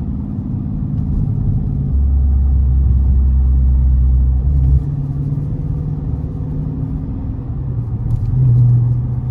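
Mopar R/T's 5.7-litre HEMI V8 cruising at light throttle, a steady low engine and exhaust drone heard inside the cabin. A deeper hum swells for about three seconds starting about two seconds in, then drops back.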